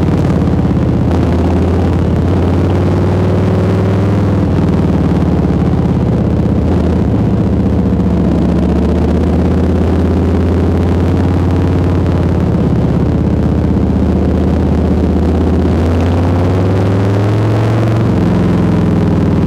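Harley-Davidson FXBB Street Bob's Milwaukee-Eight 107 V-twin running under way through a Jekill&Hyde aftermarket exhaust. The engine note holds fairly steady for most of the time, then rises under acceleration in the last few seconds.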